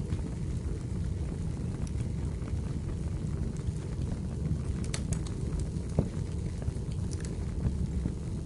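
Wood fire burning in a fireplace: a steady low rumble of flames with sparse crackles and pops of the burning firewood, the sharpest pops about five and six seconds in.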